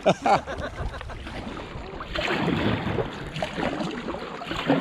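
Canoe paddling on a river: paddle strokes in the water, with wind on the microphone.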